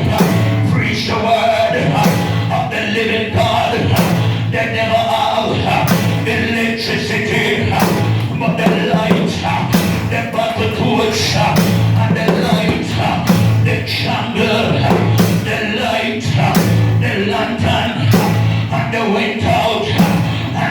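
Church band music with a steady drum-kit beat and bass, with singing over it.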